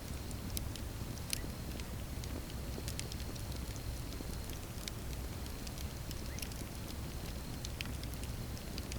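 Wood campfire burning: irregular sharp crackles and pops over a steady low rush of the flames.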